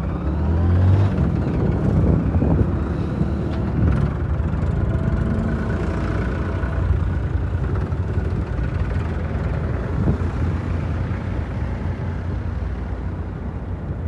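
Powertrac 47 tractor's diesel engine running, a little louder for a couple of seconds about a second in, then steady.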